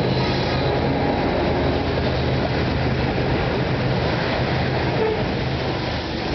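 Loaded coal hopper cars rolling past close by, their wheels rumbling and clattering on the rails, over the steady low drone of the GE diesel-electric locomotives pulling hard up the grade.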